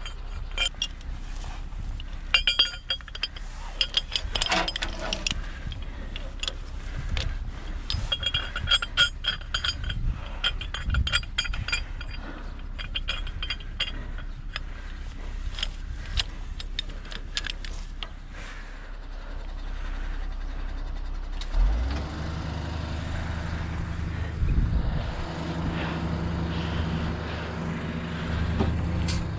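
Metal clinks and knocks of a tow chain and hooks being handled, some ringing briefly. About twenty seconds in, a truck engine comes up to a steady, faster run and keeps going.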